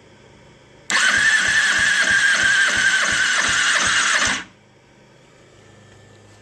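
2009 Kawasaki ZX-6R inline-four engine turned over on its electric starter for about three and a half seconds during a compression test, a steady starter whine with even beats about four a second as the cylinders come up on compression. It stops suddenly without firing.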